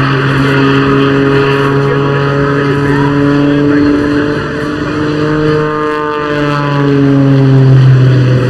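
Jet-powered Pitts Special aerobatic biplane flying its display: the steady drone of its Lycoming O-540 piston engine and propeller, mixed with jet turbine noise. The pitch bends about six seconds in as it passes.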